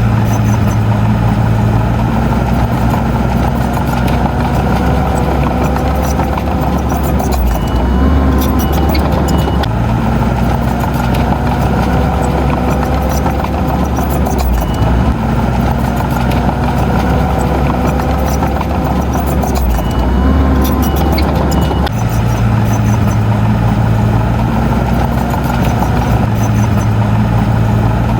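Heavy diesel earthmoving machinery engine running steadily and loudly, its low note shifting every few seconds as the load changes, with light ticking and rattling over it.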